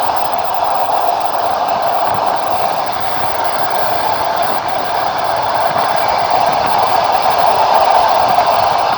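Passenger train in motion heard from inside a carriage: a steady rolling rush of wheels on the rails, with a faint click here and there.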